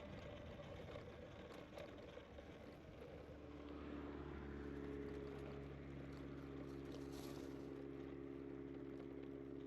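Faint rushing noise, then about three seconds in a steady, low motor hum sets in and holds.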